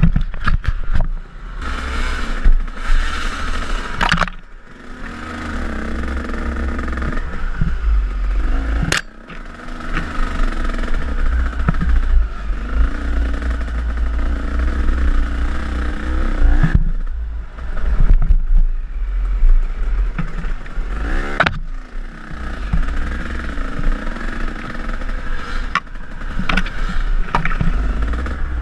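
KTM enduro dirt bike engine on a trail, its note rising and falling with the throttle and backing off briefly a few times, with sharp knocks and clatter from the bike over rough ground.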